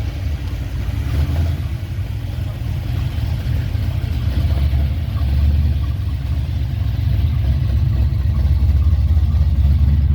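A truck engine running close by with a deep, rough exhaust rumble, growing gradually louder.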